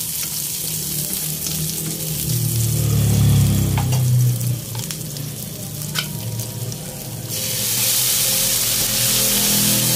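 Chopped garlic and onion sizzling in hot oil in a wok, stirred with a spatula that clicks against the pan a few times. About seven seconds in, the sizzling jumps suddenly louder as canned corned beef is tipped into the hot oil.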